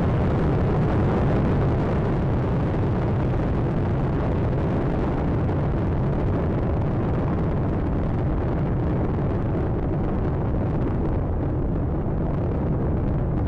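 Space Shuttle Atlantis climbing during its early ascent: the steady, loud roar of its solid rocket boosters and three main engines, heaviest in the low end, with the upper hiss thinning slightly near the end as the vehicle draws away.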